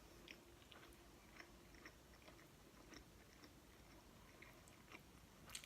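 Faint chewing of a mouthful of barbecue chicken and bacon pizza: soft, scattered clicks, with a slightly louder one near the end.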